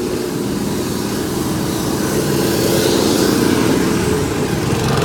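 An engine running steadily, with a hiss that swells about halfway through.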